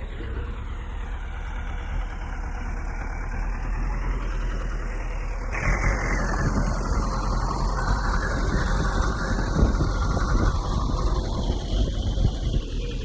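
Bulldozer's diesel engine running, growing louder about five seconds in, with irregular knocks over the engine sound.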